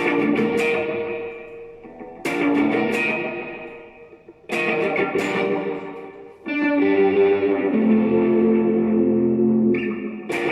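Electric guitar played through a Line 6 HX Stomp multi-effects processor with an amp simulator: chords struck about every two seconds and left to ring and fade, the last one held longer.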